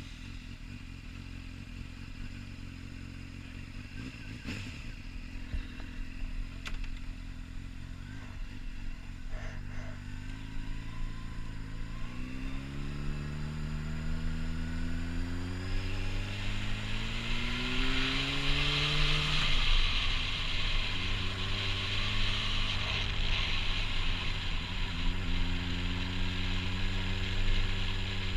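Honda CBR600RR inline-four engine breathing through a Yoshimura slip-on exhaust. It idles steadily, then is revved slowly and evenly higher for about ten seconds. About two-thirds of the way in the throttle is let off and it falls quickly back to a steady idle.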